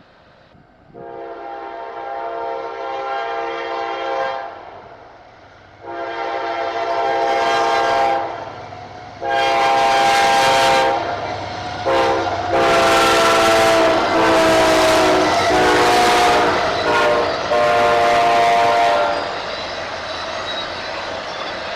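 Locomotive multi-chime air horn sounding the grade-crossing signal, long, long, short, long, as the train approaches and reaches the crossing. The final long blast runs into the steady rumble of the passing train.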